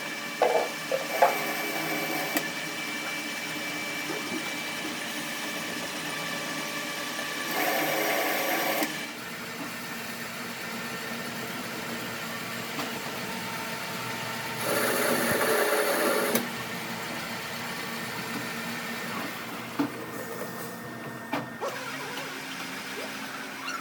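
A workshop machine running steadily with a hissing mechanical noise. It grows louder twice for a second or two, and there are a few sharp clicks.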